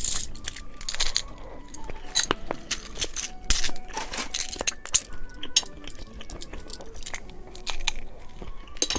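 Candy being bitten and chewed close to the microphone, with repeated sharp crunches and crackles coming irregularly, several to a second.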